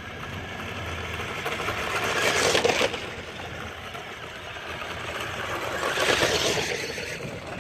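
Small electric motors and wheels of toy radio-controlled trucks running over the ground. The sound swells twice, about two and a half seconds in and again about six seconds in, as the trucks come close.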